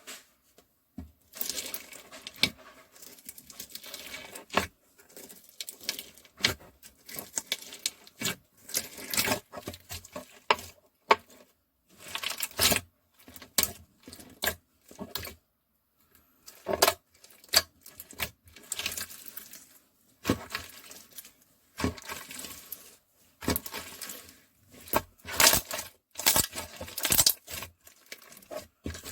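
Clear crystal slime being squeezed and worked by hand, giving irregular runs of sticky clicks and crackling pops with short pauses between them.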